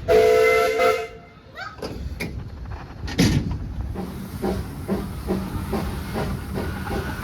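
Hunslet narrow-gauge steam locomotive sounding its whistle for about a second, then a single knock, and the engine starting to pull away with regular exhaust chuffs.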